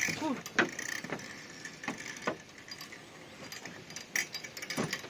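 Irregular clicks and knocks, with a short squeak near the start, from the rope, pulley and boards of a hand-pulled raft as it is boarded and set moving.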